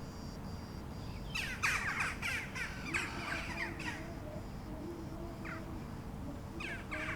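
Birds calling in an outdoor ambience: a flurry of quick, harsh, downward-sliding calls from about a second and a half to four seconds in, and a few more near the end, over a faint steady hum.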